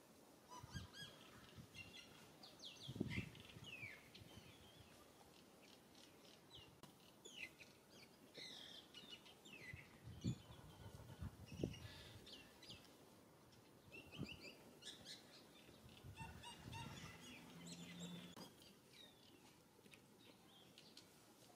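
Faint chirping of small birds in the trees: many short, high, falling notes scattered throughout. There are a few low thumps, the loudest about 3 seconds in and again around 10 to 12 seconds.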